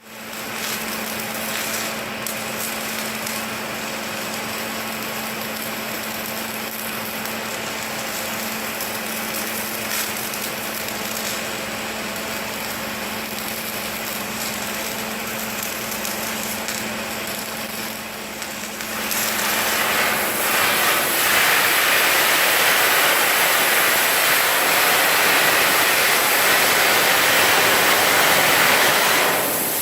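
Steady industrial machine noise with a low hum. About two-thirds of the way through, the hum gives way to a louder, steady hiss.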